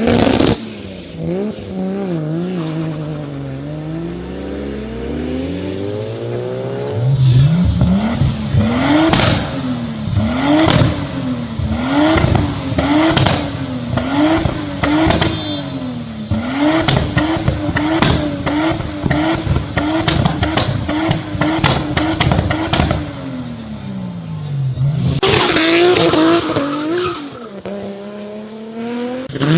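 A high-performance car engine revved up and down again and again, its pitch rising and falling about once a second, with rapid exhaust pops and bangs through the middle of the stretch. Slower single revs come before and after.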